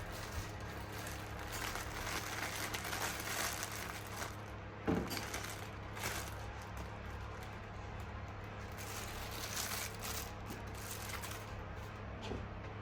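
Faint kitchen noise: a steady low hum under scattered light crackling and rustling, with a short knock about five seconds in.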